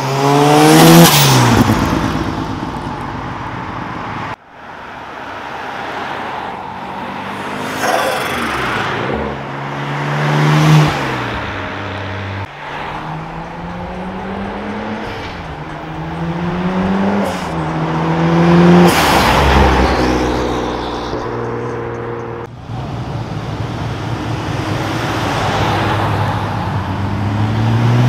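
Turbocharged cars accelerating hard past one after another, each engine climbing in pitch through the gears and dropping back at every shift. The last car is a Nissan Skyline R34, revving up as it pulls away near the end.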